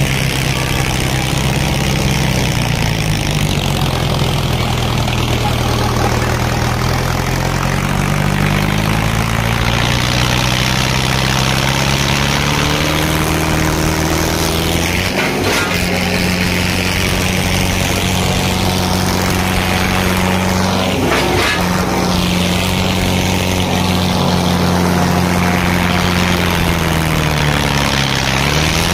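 Diesel tractor engines running hard under load, the revs sagging in the first few seconds, climbing again and then holding steady, with a brief dip near the end.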